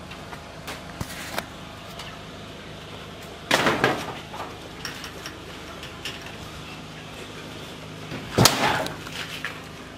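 Two loud clattering knocks, about three and a half seconds and eight and a half seconds in, with a few fainter knocks early on, over a steady low hum.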